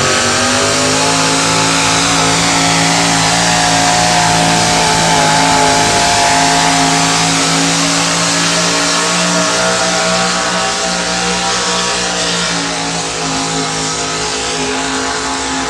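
Competition pulling tractor's engine held at full throttle during a pull, running at a steady high pitch.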